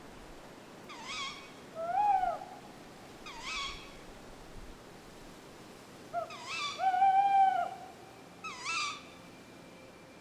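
Tawny owl calling: short, sharp calls repeated about every two seconds, with two longer, steadier notes, one about two seconds in and one about seven seconds in, which are the loudest.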